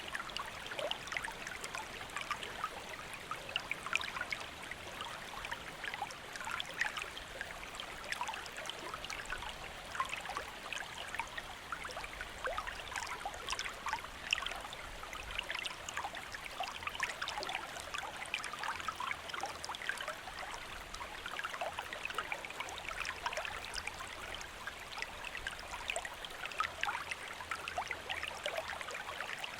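Shallow stream flowing over rocks: a steady babble of small splashes and trickles.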